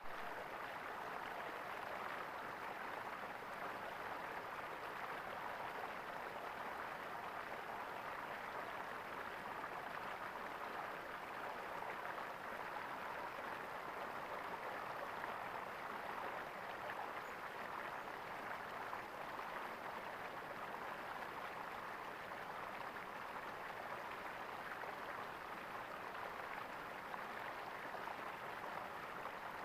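Water gurgling and running steadily in a small stream, an even splashing wash with no breaks.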